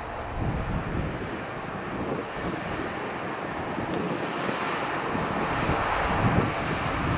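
Airliner engines rushing, growing steadily louder as the aircraft approaches, with gusty wind buffeting the microphone.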